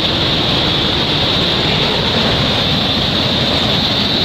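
Loud, steady rush of water from a waterfall, with a constant high hiss above it.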